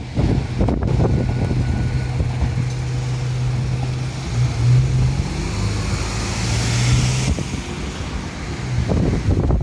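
A vehicle running past with a steady low hum that wavers in pitch, over a hiss of wheel or road noise that builds and then cuts off suddenly about seven seconds in.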